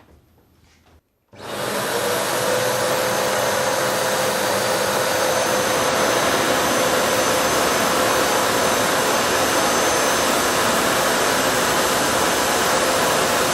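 Vacuum cleaner motor running steadily with a constant airflow rush and a steady hum, coming on about a second in.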